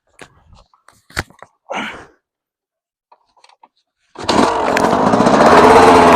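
Small dirt bike engine revving hard, starting suddenly about four seconds in. It is loud and close, and its pitch wavers with the throttle. Before it there are only a few faint clicks and one sharp knock.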